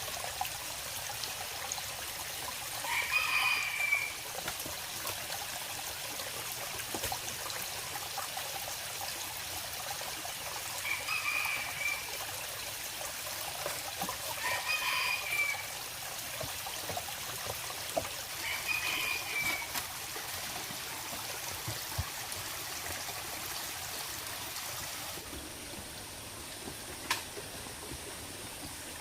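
A bird calling four times, each call about a second long and spaced several seconds apart, over a steady hiss.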